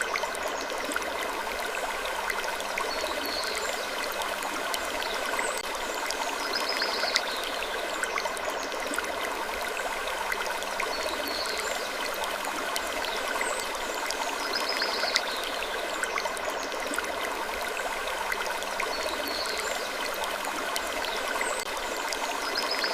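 Looped sleep ambience: a steady rushing, stream-like noise with a short, high wood creak that recurs about every four seconds.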